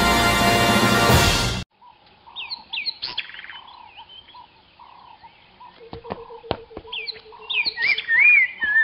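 A music cue that cuts off suddenly a little under two seconds in, followed by birds chirping and twittering with quick up-and-down calls, and scattered sharp clicks.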